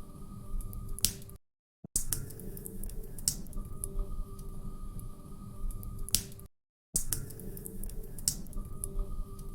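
Log fire crackling, with irregular sharp pops and snaps over a low rumble. The sound cuts out briefly twice, about a second and a half in and again about five seconds later.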